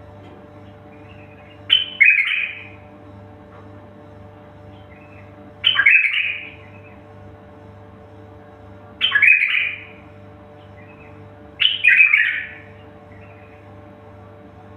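A bird giving four loud, harsh calls of about a second each, spaced three to four seconds apart, over a steady low hum.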